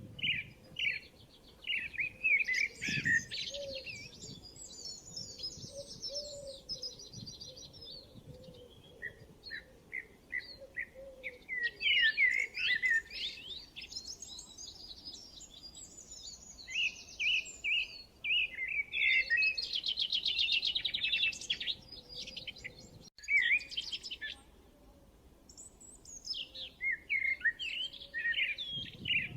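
Songbirds chirping and singing in overlapping phrases: runs of short repeated high notes and fast buzzy trills, with brief pauses between phrases.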